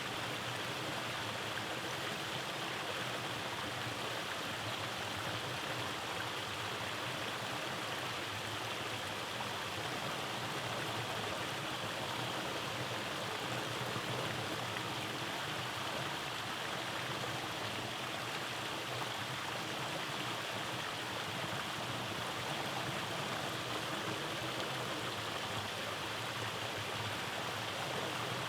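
Rainforest stream tumbling over cascades: a steady rush of flowing water with no breaks.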